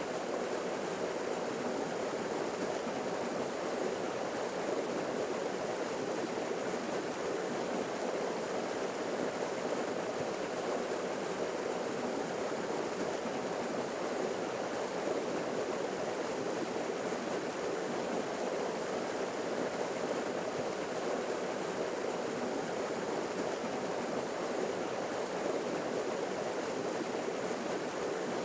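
Small forest waterfall splashing into a stream, a steady, even rush of falling water.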